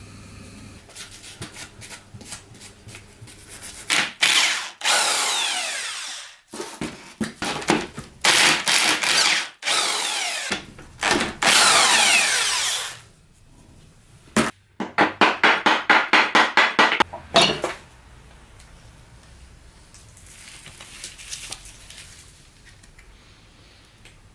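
A handheld power tool run in several loud bursts of a few seconds each, its pitch shifting as the motor speeds up and slows. A quick run of about four sharp pulses a second follows.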